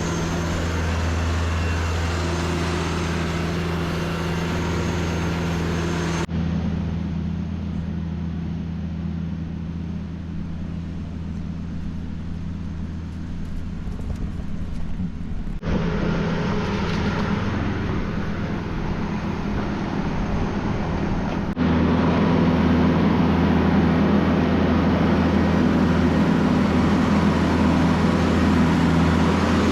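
A vehicle engine running steadily at a constant low pitch, with the background changing abruptly at several edit cuts.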